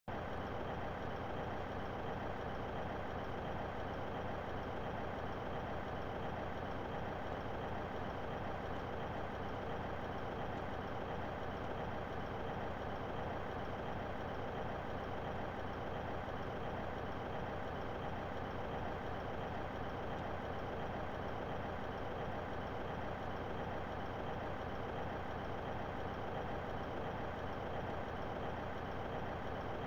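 A vehicle engine running steadily: an even hum that does not change.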